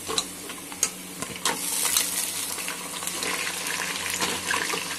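Raw beef mince sizzling as it goes into hot mustard oil and fried onions in an aluminium pressure cooker, with a steel ladle clinking and scraping against the pot as it is stirred. The sharpest clinks come in the first two seconds.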